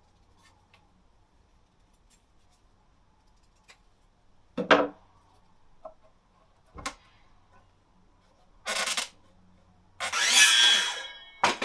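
Hand work on wooden branches: a sharp knock, a click, then two short scraping strokes, the second about a second long and the loudest, with a last knock near the end.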